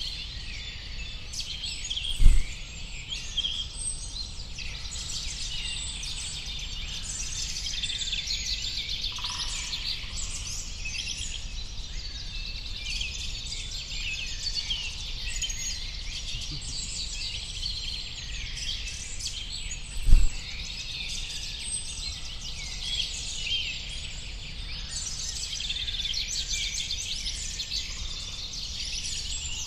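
Dense chorus of many small songbirds chirping and twittering over a low steady rumble. Two short low thumps, one a couple of seconds in and one about two-thirds of the way through.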